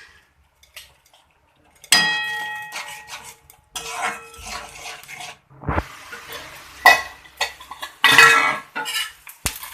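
A metal spoon clanking and scraping in a kadhai while a tomato-and-spice masala is stirred. A sharp, ringing clank comes about two seconds in, with more clinks and scraping through the rest.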